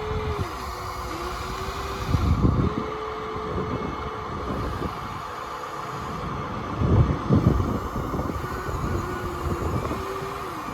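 Small electric motors of radio-controlled toy construction machines whining, the pitch dropping and climbing again several times as they stop and start. Two louder rough bursts come about two seconds in and about seven seconds in.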